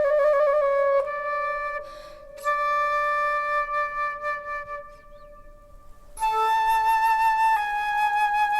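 Background music: a solo flute playing a slow melody of long held notes with vibrato. It fades to a brief lull about halfway through, then comes back on a higher note that steps down near the end.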